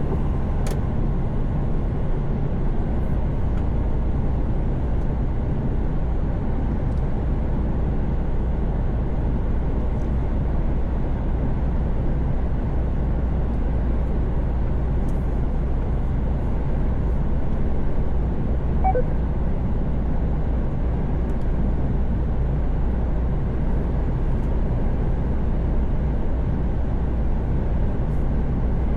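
Steady drone inside the cab of a Mercedes-Benz Actros truck cruising on the motorway: engine hum with tyre and wind noise. A short faint beep comes about two-thirds of the way through.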